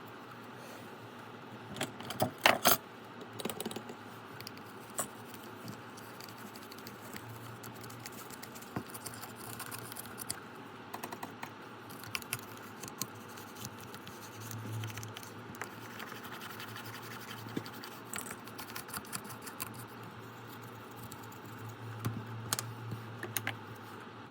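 Close-up handling sounds of small electronics work: scattered clicks, taps and scratches of tools and plastic parts as the degraded lithium battery is worked out of a soap dispenser's housing, with a louder burst of sharp clicks about two seconds in. A low hum comes and goes underneath.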